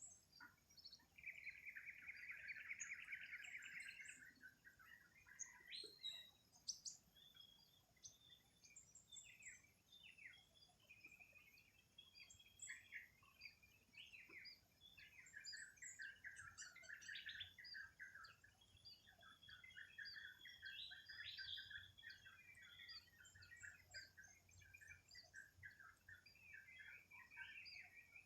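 Several birds faintly chirping and calling. About a second in, a rapid trill lasts about three seconds and is the loudest thing heard; after it come many short, overlapping chirps and whistles.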